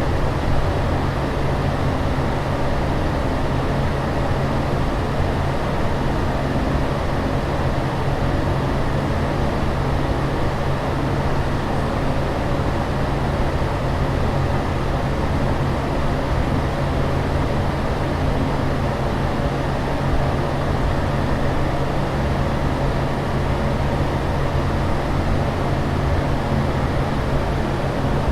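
Steady rushing-air drone of fan or aircraft-cabin ambience: an even hiss with a constant low hum underneath, unchanging throughout.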